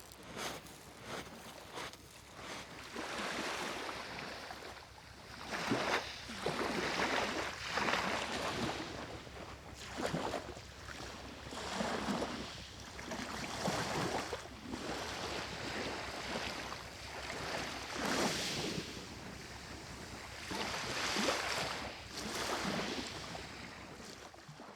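Small sea waves washing onto a beach, each one swelling and falling away, about one every two seconds.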